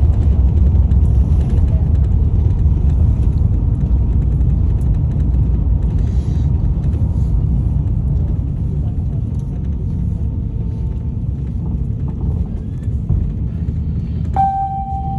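Airbus A350 cabin rumble during the landing roll, a heavy low roar that slowly fades as the airliner slows. Near the end a cabin chime rings once.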